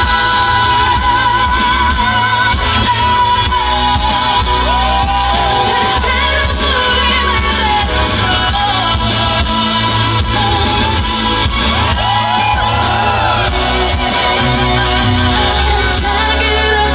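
Live pop music: a female singer belts sustained notes with wide vibrato and runs, over band backing with a heavy bass line.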